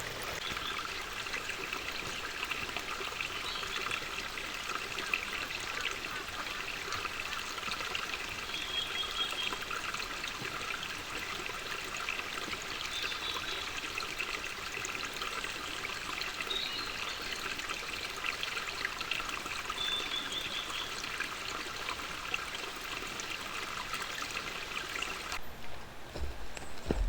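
Water trickling steadily, with a few short, high chirps now and then. The trickle cuts off suddenly near the end.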